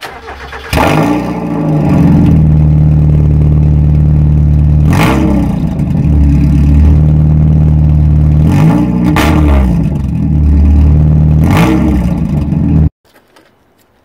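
Mazda MX-5's four-cylinder engine starting and running with no rear silencer, its exhaust open at the flanged end of the centre pipe, so it is loud. It is blipped three times and then switched off suddenly near the end.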